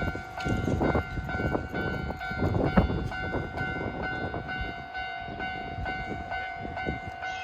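A train passing over a level crossing, its wheels clattering over the rail joints, the rumble easing off as it goes by. Behind it the crossing's electronic warning bell keeps ringing in a steady repeating rhythm.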